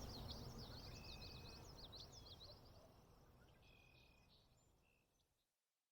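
Faint birdsong, a quick run of high chirps, over a faint outdoor ambience that fades away to silence shortly before the end.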